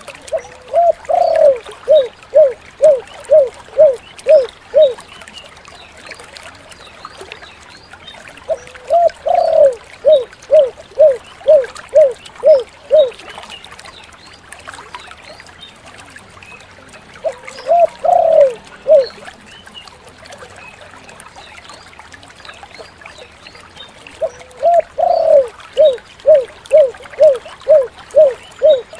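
Spotted dove (tekukur) calling four times, about eight seconds apart. Each call is a first coo followed by a long run of about seven short, even 'kuk' notes, and the third call is shorter than the others.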